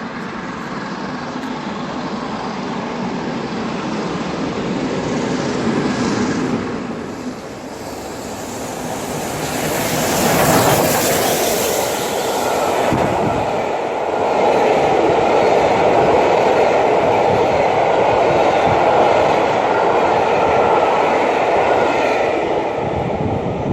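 A steam-hauled passenger train rolling past with its wheels clattering over the rail joints. It grows louder, peaks with a sharp surge of noise about ten seconds in, then carries on as a steady loud rumble as the coaches go by.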